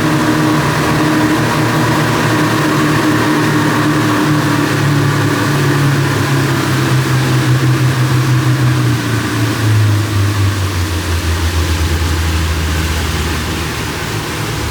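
Speedboat engine running, its pitch falling slowly over several seconds as the boat throttles back and slows, over a steady hiss.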